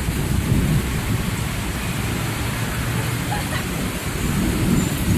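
Heavy rain falling steadily, with a low, uneven rumble underneath.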